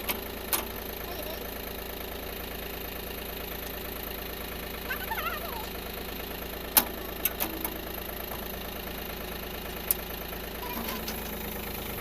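Tractor's diesel engine idling steadily, with a few sharp knocks over it, the loudest about seven seconds in.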